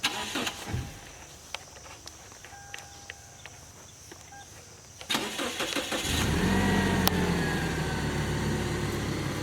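A few clicks and knocks, then a car engine cranks about five seconds in, catches and settles into a steady idle.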